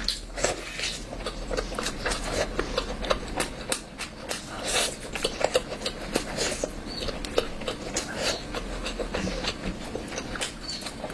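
A person chewing and smacking their lips while eating curry, a run of quick, irregular clicks several times a second.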